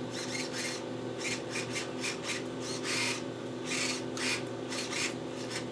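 A series of short, irregular rubbing and scraping sounds, as of parts being handled and rubbed, over a steady low hum.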